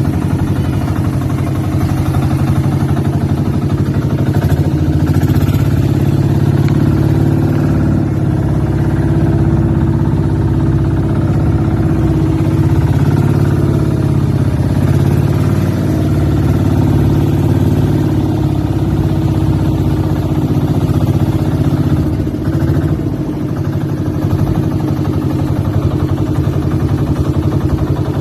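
A boat's engine running steadily at a constant speed, with a brief dip in level about two-thirds of the way through.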